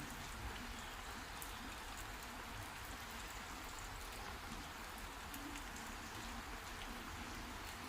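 Heavy rain falling steadily, an even hiss with scattered sharp drip ticks.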